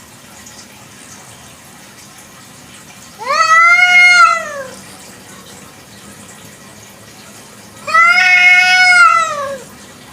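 Free-roaming domestic village cat meowing twice, each a long drawn-out meow that rises and then falls in pitch, the second about four seconds after the first.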